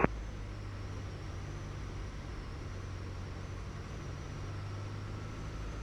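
Steady drone of a Piper Tomahawk's four-cylinder Lycoming engine and propeller heard in the cabin, an even low hum with no change in pitch.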